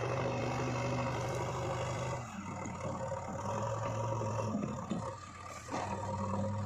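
Diesel engine of heavy machinery running; its steady low note drops away and returns in spells, as with engine load changing while working.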